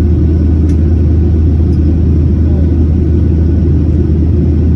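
Steady low rumble of an airliner's cabin noise in flight: the engines and rushing air heard from inside the passenger cabin, even and unchanging.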